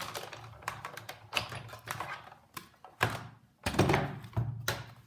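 Sizzix Big Shot die-cutting machine being cranked by hand, a die sandwiched between cutting plates rolling through, with scattered clicks and a few heavier knocks about three to four and a half seconds in.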